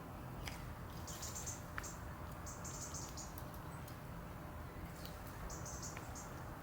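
Small garden birds chirping in short high-pitched bursts a couple of seconds apart, with a few faint clicks, over a steady low background rumble.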